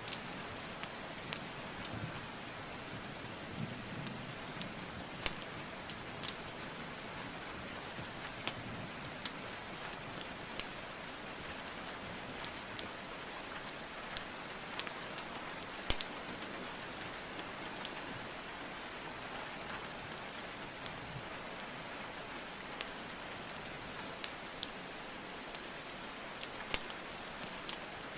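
Steady rainfall hiss mixed with the crackle of a wood fire: sharp, irregular pops and snaps from burning logs, a few standing out louder.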